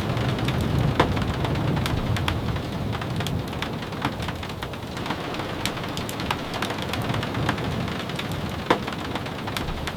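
Steady rain with scattered sharp ticks, and a low rumble that fades over the first few seconds.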